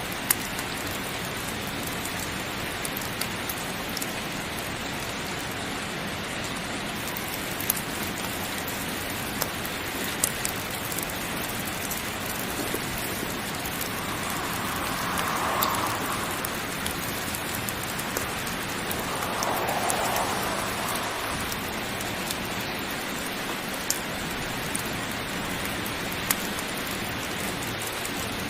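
Steady heavy rain, with a few sharp crackles from a wood fire scattered through it. Two brief swells rise in the rain's hiss around the middle.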